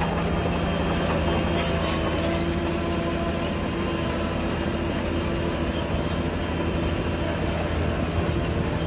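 Crawler bulldozer working: its diesel engine runs with a steady, even hum while its steel tracks clank and squeal.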